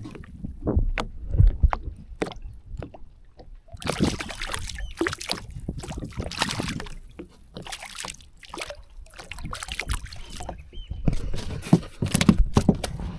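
Handling noise close to the microphone: irregular knocks, clicks and rustles over a low rumble, typical of landing and handling a fish with its fishing tackle.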